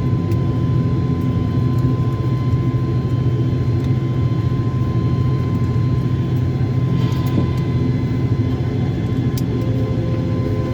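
Steady drone of an ATR 72-600's turboprop engines and propellers heard from inside the passenger cabin: a constant low hum with a thin steady whine above it.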